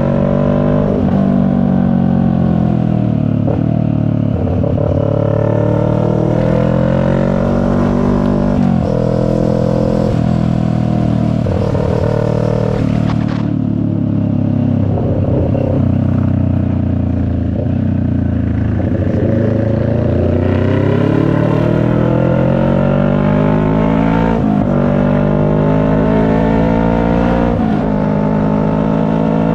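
CFMoto 400NK motorcycle's parallel-twin engine running under way. Its pitch climbs and drops several times, with sudden steps between gears.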